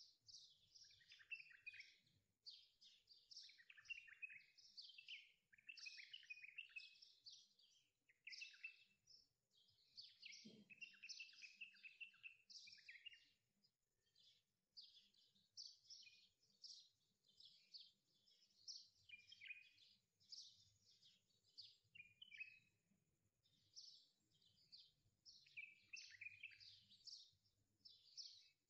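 Faint songbirds chirping and singing, a dense run of short, quick notes with no pause, with one soft low thud about ten seconds in.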